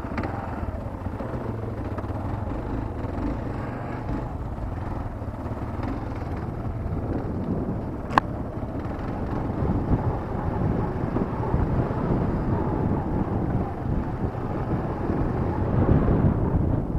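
A dual-sport motorcycle engine running steadily, growing rougher and fuller about seven seconds in, with one sharp click about eight seconds in.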